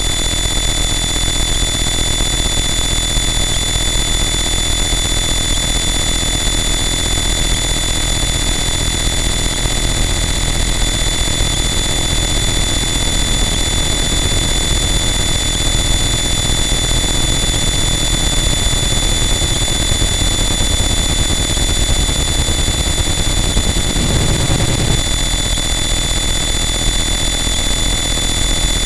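Harsh noise wall: a loud, dense, unchanging wall of distorted static with steady high whining tones running through it, and a brief low swell near the end.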